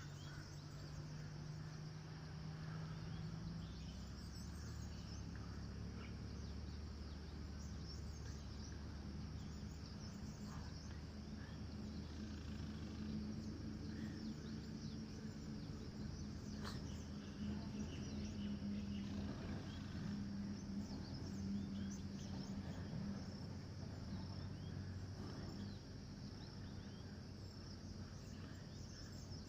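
Faint outdoor ambience: a steady high chirring of insects with a few scattered bird chirps, over a low hum that drifts slowly in pitch.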